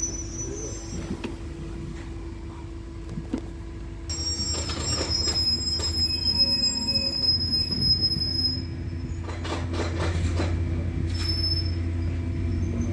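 A train running on the rails with its wheels squealing: thin, high screeches come and go over a steady rumble that grows louder about four seconds in, with a few short clacks from the track.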